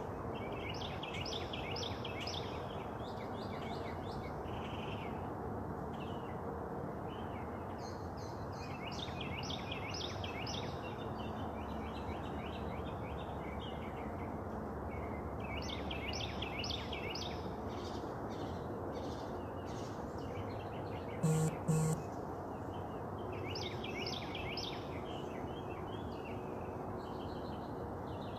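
A songbird singing outdoors, giving short phrases of rapid high notes every few seconds over a steady background hiss of outdoor noise. Two brief loud blips come close together a little past the middle.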